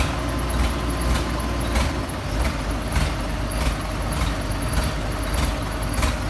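Diesel excavator engine running steadily, with a regular knock about twice a second.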